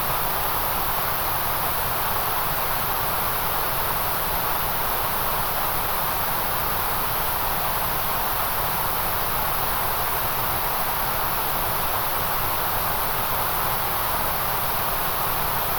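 Steady synthetic white noise: an even, unchanging hiss with no rhythm or events.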